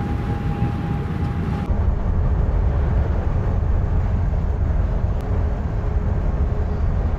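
Steady low road and engine rumble inside a moving car, with a jump in level about two seconds in.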